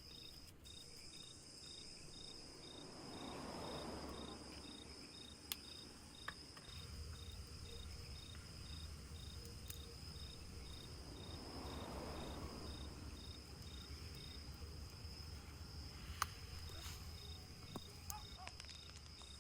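Insects chirping, likely crickets: a steady high trill with a second, evenly pulsing chirp about twice a second. Two soft swells of rustling noise pass, and there are a few faint sharp clicks.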